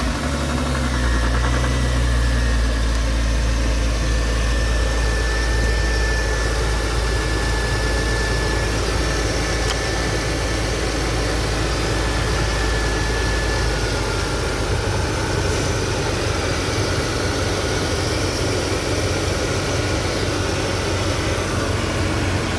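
Porsche Cayman engine idling steadily just after starting, settling down from its start-up speed in the first couple of seconds. It runs smoothly with no odd noises: everything is doing what it should.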